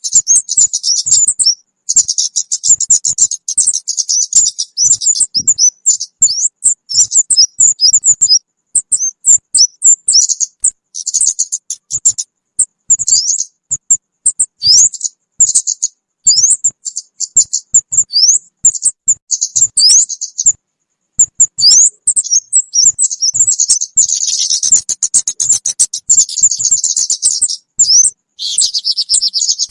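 Bird-trapping lure recording of kemade birds calling: rapid, high-pitched chirps and trills with many short rising notes, in runs broken by brief gaps.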